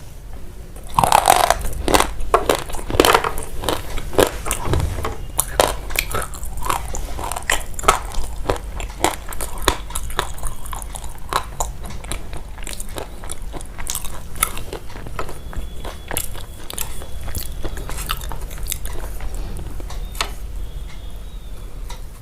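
Close-miked crunching, like chewing crunchy food: many crisp crackles in quick succession, loudest about a second to three seconds in.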